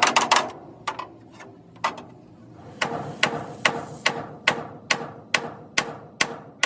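Hand hammer blows on steel, each with a short ring. A quick flurry of strikes at the start and a few single blows give way, about three seconds in, to a steady beat of roughly two to three blows a second.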